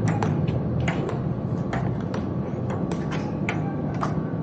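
Irregular sharp taps and clicks, several a second, over a steady low hum.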